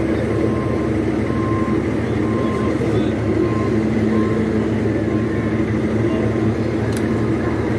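Fire truck engine running steadily while its reversing alarm beeps about once a second as the truck backs up. There is a sharp click near the end.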